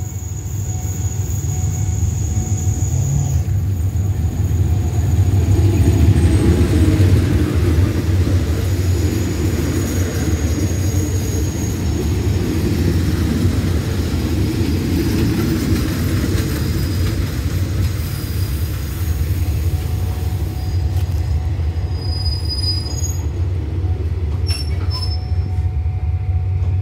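Diesel-hauled passenger train rolling past with a steady low rumble, loudest about six to eight seconds in as the locomotive goes by, then the coaches rolling past more slowly. Short high wheel and brake squeals come near the end as the train draws to a halt at the platform.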